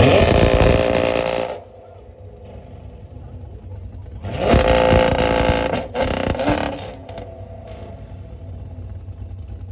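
Car engine revved hard twice: a loud rev that dies away about a second and a half in, and another a few seconds later that ends with a sharp crack, with the engine rumbling lower in between and afterwards.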